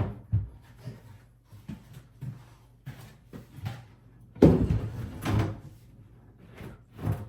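Wooden vanity cabinet being shifted and bumped into place: a series of short knocks and bumps, the loudest a heavy bump about four and a half seconds in.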